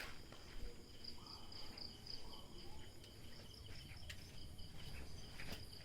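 Faint, steady high-pitched chirring of insects, a pulsing trill, with a few soft clicks or footsteps.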